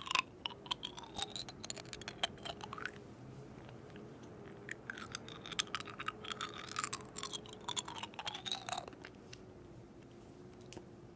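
Irregular crunching and scraping clicks with short squeaky glides in pitch, in two spells with a quieter gap of about a second and a half between them, over a faint steady hum: food being worked during street-food preparation.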